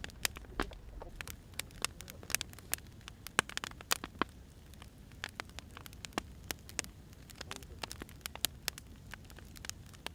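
Wood fire crackling: irregular sharp snaps and pops of burning firewood over a low, steady rumble.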